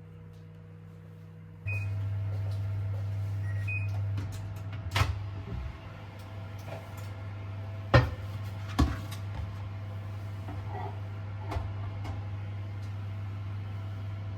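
Microwave oven switching on after short beeps and running with a steady low hum. A few sharp knocks of kitchenware, one loud knock about eight seconds in.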